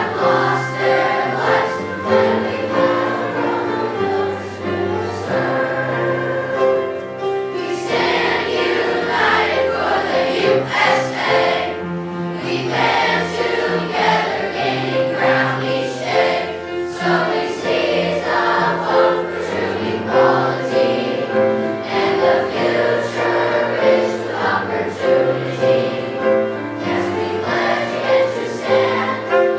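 Sixth-grade school choir singing a song with instrumental accompaniment.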